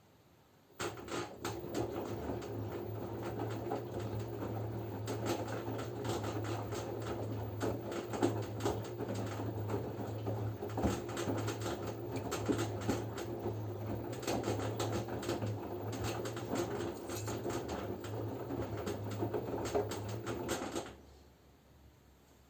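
LG F10B9LD front-loading washing machine in its wash phase: the drum turns for about twenty seconds with a steady motor hum, laundry and water sloshing and small clicks, then stops near the end. This is one of the timed tumble-and-pause cycles of washing.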